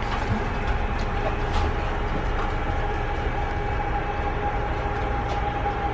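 Steady low rumble and hum of a passenger train, with one thin steady whine running through it.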